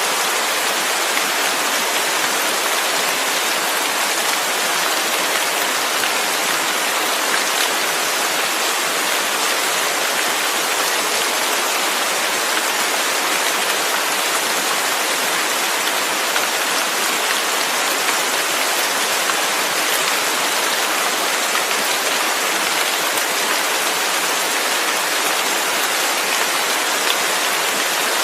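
Steady heavy rain, a dense even hiss of drops falling on a surface.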